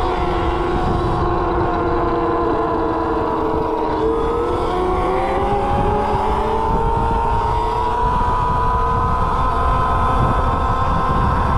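Electric mini bike's motor whining while riding, the whine dipping about four seconds in and then climbing slowly in pitch as it speeds up, over low wind rumble.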